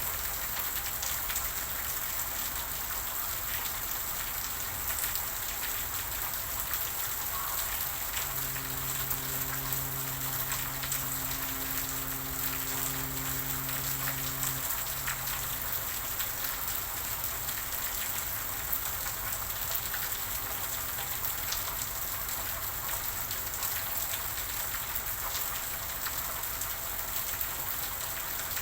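Steady rain falling, an even hiss with a fine patter of drops. A low, steady hum joins in about eight seconds in and stops about seven seconds later.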